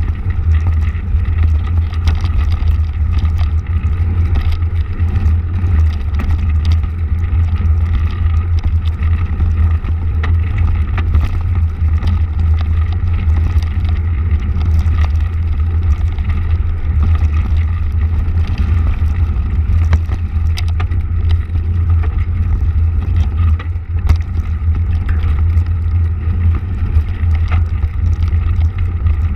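Motorcycle engine running steadily while riding, a constant loud drone with no breaks.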